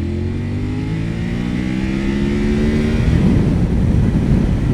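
Motorcycle engine accelerating hard, its pitch rising steadily for about three seconds. Then a louder rush of wind on the microphone takes over as the speed builds.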